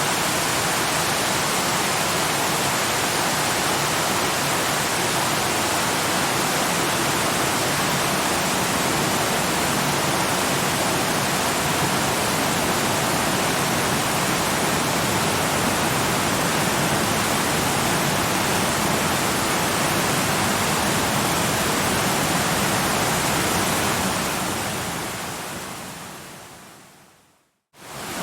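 Steady rushing of a waterfall, an even wash of falling water. Near the end it fades away to a moment of silence and then swells back in.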